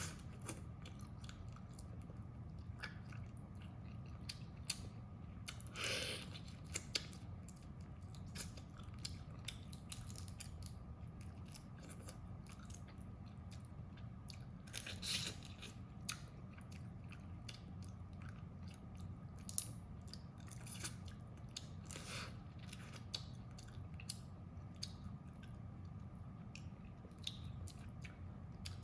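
Close-miked eating of crab: a dense run of small cracks, clicks and chewing as shell is bitten and meat chewed, with a few louder crunches near 6, 15 and 22 seconds in. A steady low hum underneath.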